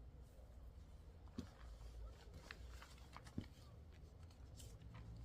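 Near silence with a low rumble and a few faint, short clicks and rustles, two slightly louder taps about a second and a half in and again near the middle.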